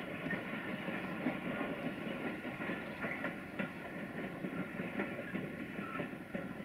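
Freight train wagons rolling along the track: a steady rumble with a few clacks of wheels passing over rail joints.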